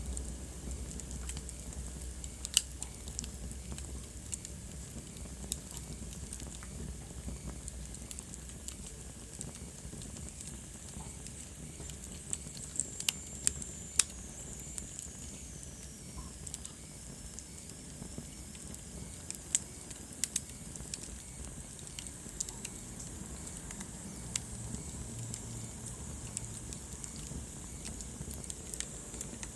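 Wood fire burning in a fireplace, crackling with irregular sharp pops over a steady low hiss. A faint high whistle falls slowly in pitch about halfway through.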